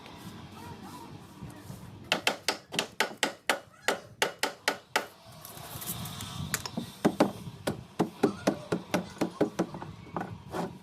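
Rapid series of sharp knocks, about five a second, starting about two seconds in and stopping near the middle; after a short pause a second run of knocks, about four a second, follows until near the end.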